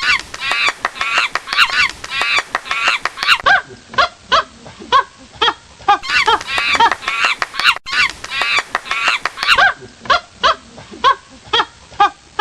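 A flock of honking calls, many short goose-like honks in quick succession, some overlapping. The run of calls seems to start over about eight seconds in, as if a recording is looped.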